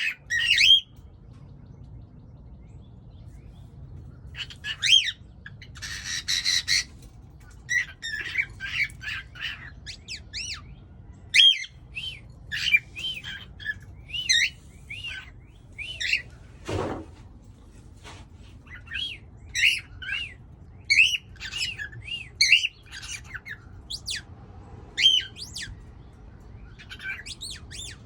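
Pet birds chirping and squawking in short, repeated calls with brief gaps between them.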